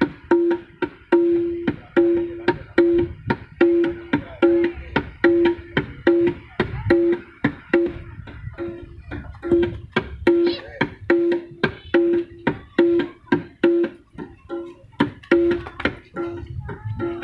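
Gendang (Indonesian hand drum) played in a steady rhythm through a PA system during a sound check: roughly two pitched, ringing strokes a second, with lighter slaps between them.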